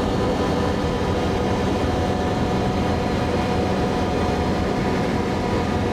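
Can-Am Outlander ATV engine running steadily while the machine is ridden along a road, a constant drone with no change in speed.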